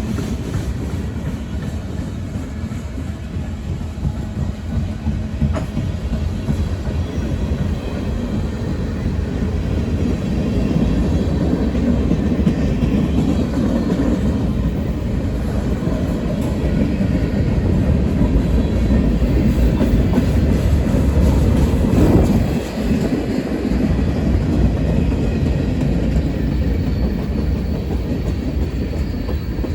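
CSX freight train cars rolling past with a steady heavy rumble and a constant clatter of wheels over the rail joints.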